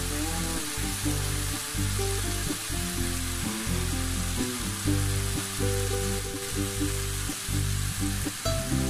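Pumpkin and green beans sizzling in oil in a hot stir-fry pan, a steady hiss, with background music playing underneath.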